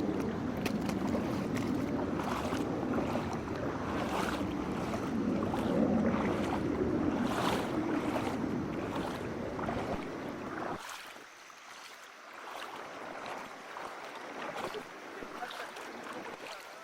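Water splashing in a shallow mountain stream, in short irregular splashes like steps wading through it. A rumble of wind on the microphone underlies the first two-thirds and cuts off suddenly.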